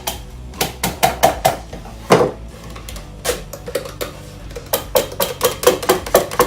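Irregular sharp knocks and clinks of hand work, some single and some in quick runs of several a second, over faint background music.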